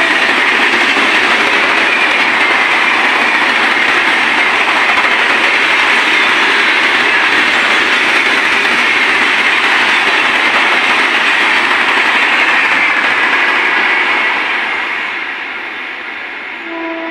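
Indian express train passing close by at about 130 km/h: a loud, steady rush and rattle of coaches and wheels on rail that fades about fourteen seconds in. A train horn starts again right at the end.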